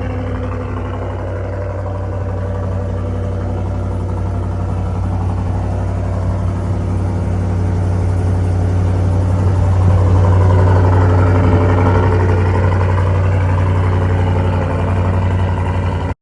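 Chevy Silverado 6.2-litre V8 idling through a Borla S-Type cat-back exhaust: a deep, steady exhaust note that grows a little louder around the middle.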